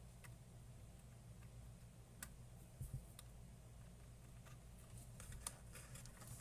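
Near silence with a low steady hum, broken by about five faint, sharp clicks of small parts being handled.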